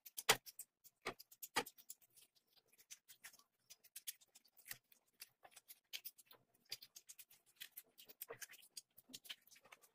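Close-up eating sounds: irregular wet clicks of chewing and lip smacking as meat is gnawed off a mutton leg bone, with a few louder smacks in the first two seconds and another near the middle.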